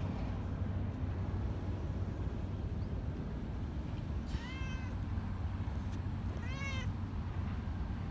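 A cat meowing twice, about two seconds apart, each meow rising then falling in pitch, over a steady low background rumble.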